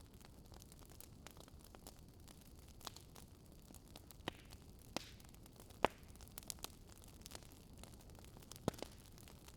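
Wood fire burning in a fireplace: irregular crackles and snaps from the burning logs over a low steady hiss, with the sharpest pop about six seconds in and another near the end.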